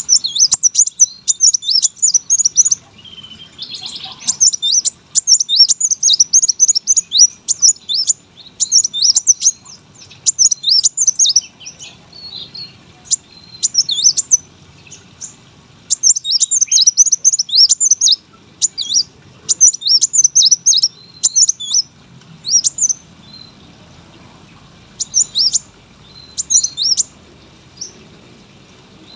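A kolibri wulung sunbird singing: fast runs of high, thin chirps and trills, in bursts of a second or two with short breaks, the breaks growing longer near the end.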